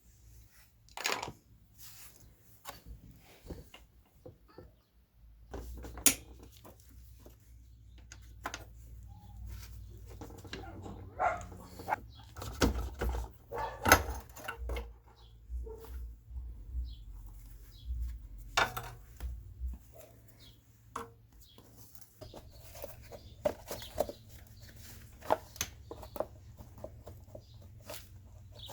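Irregular clicks and knocks of metal tools and parts being handled, with a low rumble through the middle stretch.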